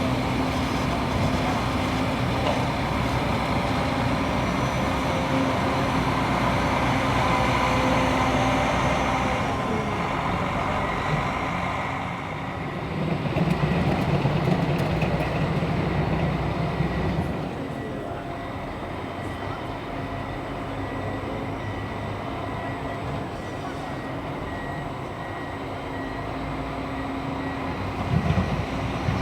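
PistenBully 600 Polar SCR snowcat grooming, its Mercedes-Benz OM 460 LA inline-six turbodiesel running steadily under load with a high whine from the turbo and hydraulic pumps. About halfway through the engine sound swells for a few seconds, then settles quieter.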